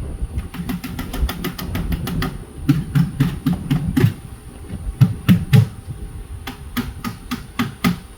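A rapid, irregular series of sharp clicks and knocks, some with dull thumps, densest near the middle and again toward the end, over a low rumble.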